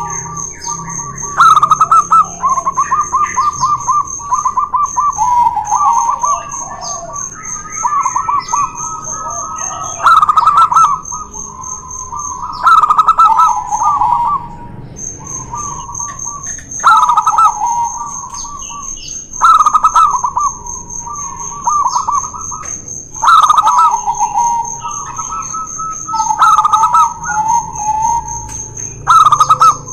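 Zebra doves (perkutut) cooing in rapid stuttering phrases, a loud call every two to three seconds. A steady high-pitched tone runs behind them, with two brief breaks.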